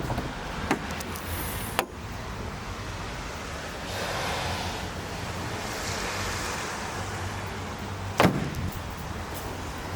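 Steady vehicle running noise heard inside a Volkswagen Transporter van, a low rumble with a few sharp knocks, the loudest about eight seconds in.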